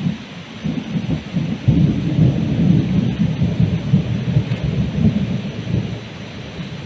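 A long rumble of thunder over steady heavy tropical rain, swelling about two seconds in and easing near the end.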